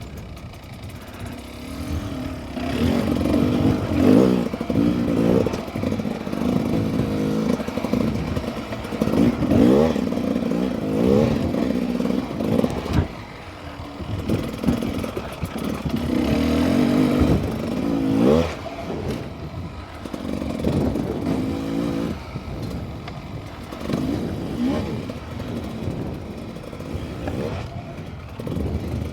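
Beta 300 two-stroke dirt bike engine revving up and backing off over and over as it is ridden over whoops and jumps, its pitch climbing and dropping every few seconds.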